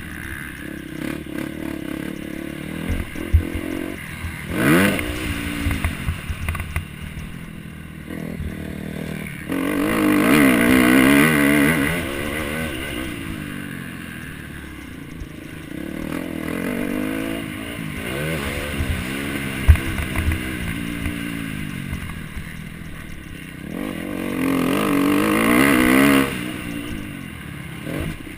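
Motocross bike engines revving up and down as they race, the pitch climbing and dropping again and again. The revving surges loudest about ten seconds in and again near the end, and a few sharp knocks break through.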